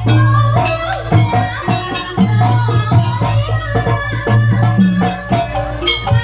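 Live jaranan ensemble music: quick, dense drum and struck metal percussion with short pitched ringing notes over a steady low drone.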